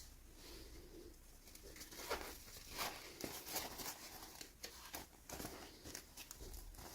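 Hands handling small toy packaging: a string of irregular soft rustles and light taps, busier after about two seconds.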